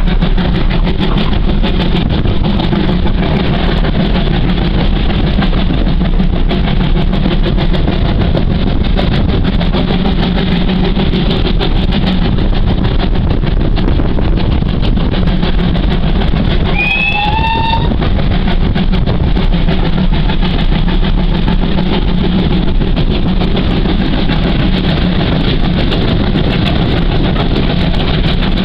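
Steady, loud rumble and rush of a moving train, heard from inside a carriage hauled by the GWR Hall-class 4-6-0 steam locomotive 4936 Kinlet Hall. A brief rising tone about 17 seconds in.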